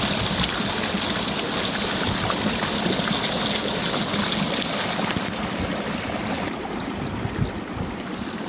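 Mountain stream running over rocks into rock pools: a steady rush of water that grows somewhat quieter near the end.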